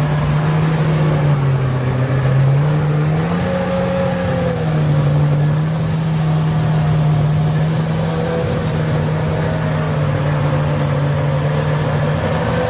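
Porsche 911 GT3 Cup race car's flat-six engine running at a steady speed. Its note sags slightly about two seconds in, then lifts briefly about four seconds in.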